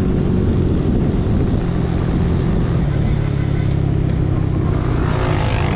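Motor scooter engine running steadily under way, rising in pitch near the end as it accelerates.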